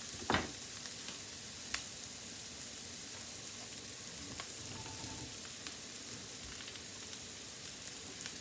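Mushrooms frying in oil in a pan: a steady sizzle with a few light clicks.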